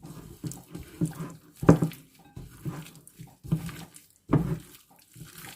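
Diced marinated chicken breast being mixed with cornstarch in a bowl: wet squelching and slapping in irregular bursts, loudest about a second and a half in and again past four seconds.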